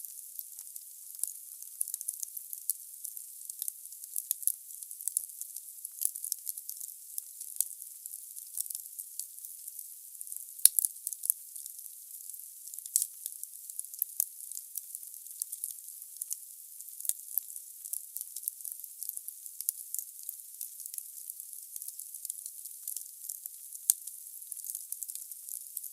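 Wood burning in a fireplace: a steady hiss with frequent sharp crackles and pops from the logs, one louder pop about ten seconds in.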